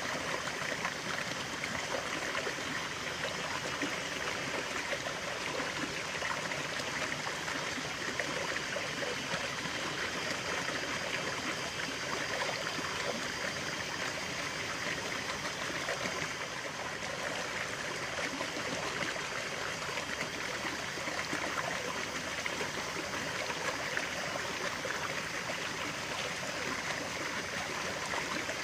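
Shallow stream running steadily over stones, an even rushing with small trickling and splashing detail.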